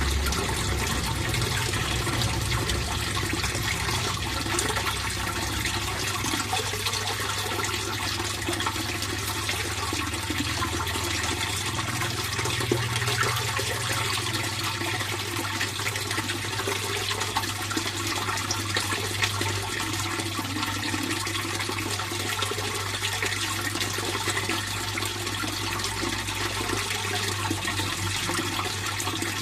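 Fish pond water flowing steadily: a constant rush of moving water with a steady low hum underneath.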